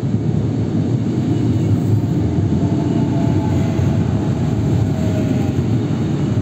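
CP electric suburban train passing close along the platform: a steady rumble of wheels on rails, with a faint whine in the middle of the pass.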